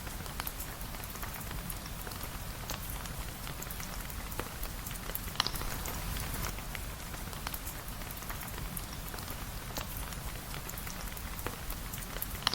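Steady rain falling, with scattered sharp drops and clicks through it and one louder click about five seconds in.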